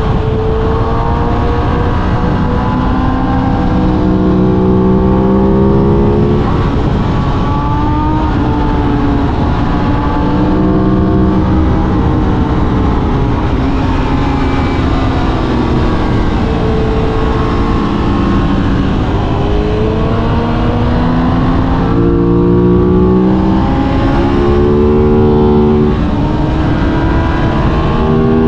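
Aprilia RS 660 parallel-twin engine heard from on board, its note climbing and dropping several times as it accelerates and shifts through the gears, over a steady rush of wind.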